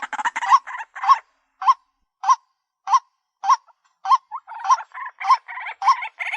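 White-breasted waterhen calling: a long series of harsh, honking notes with a hooked pitch. Some stretches have about one note every 0.6 s, and denser chattering runs come at the start and again from about four seconds in.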